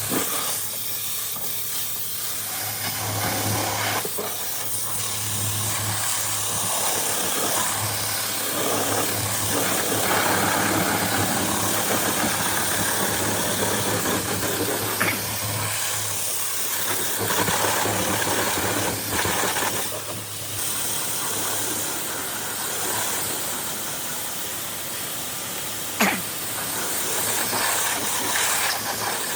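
Pressure washer spraying water, a steady hiss that swells and fades as the spray moves over surfaces, over the constant hum of its pump motor. A single sharp click near the end.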